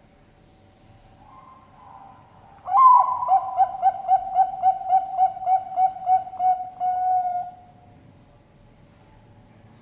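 Zebra dove (Bangkok perkutut) cooing its full song. A soft lead-in gives way to a loud opening note, then a quick run of about a dozen pulsed coos and a held closing note, all on one low pitch.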